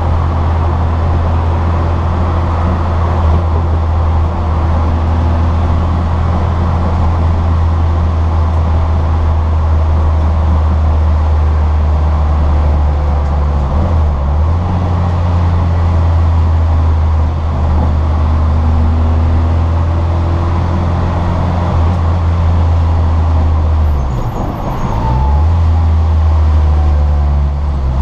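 Citroën Saxo VTR race car heard from inside the cabin at full throttle: a steady, loud low drone of engine and road noise. It eases off briefly twice, about halfway through and a few seconds before the end, as the throttle lifts or the gear changes.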